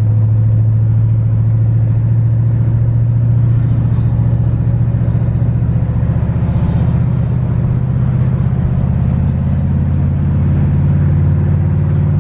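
1973 Chevrolet Camaro's engine droning steadily at freeway speed, heard from inside the cabin along with road noise. The pitch rises slightly about halfway through.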